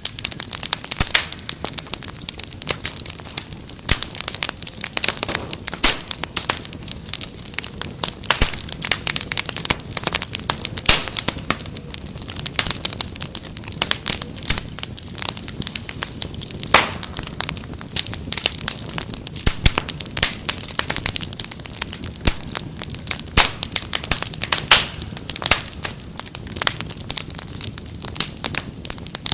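Wood fire crackling, with many sharp pops and snaps over a soft steady hiss.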